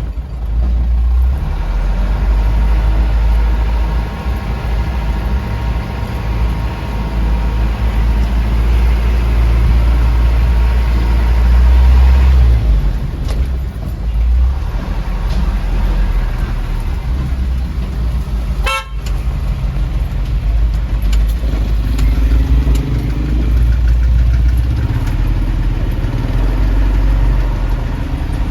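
Vehicle on a road test, its engine and drivetrain giving a heavy, steady low rumble with no clunk from the differential, whose gear clearance has just been adjusted.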